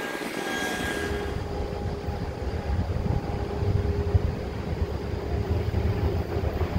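Distant commuter train approaching on the line: a low, unsteady rumble with a faint steady hum, mixed with wind buffeting the microphone. A faint high tone fades out about a second in.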